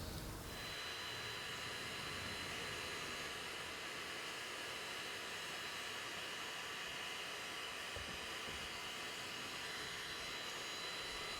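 A small electric tool running steadily, with a hissing whir and a faint high whine that start about half a second in and hold evenly throughout.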